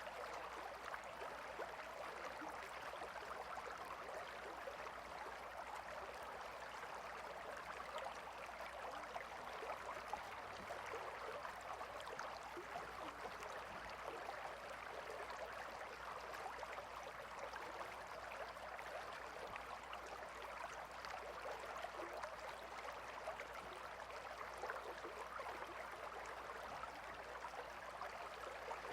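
Gentle river flowing: a steady, soft rush and babble of water without a break.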